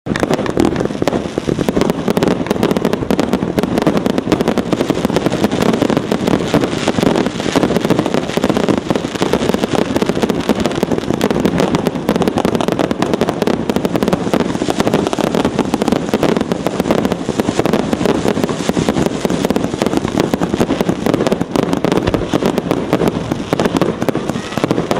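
Consumer firework 'Galaktika' (item A7226) going off: a dense, unbroken stream of crackling pops that starts abruptly and holds steady throughout.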